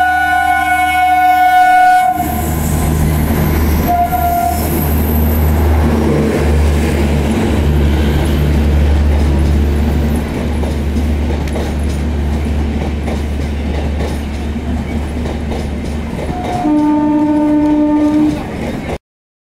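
Indian Railways express train passing behind an electric locomotive: a long horn blast as the locomotive approaches, a short toot a couple of seconds later, then the steady rumble and clickety-clack of the coaches rolling by. Another, lower horn blast sounds near the end before the sound cuts off suddenly.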